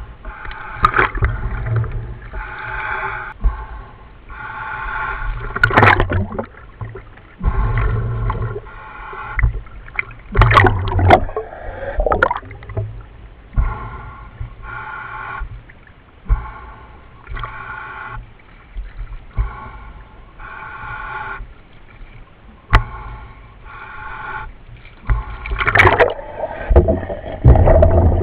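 A diver breathing through a commercial dive helmet, heard over the helmet's radio: rhythmic breaths and gurgling exhaust bubbles repeating every second or two, with a few louder bursts of bubbles.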